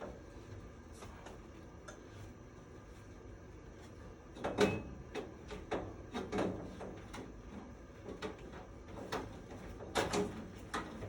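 Irregular knocks and clatter of tools and parts being handled, over a steady low hum; the loudest knock comes about four and a half seconds in.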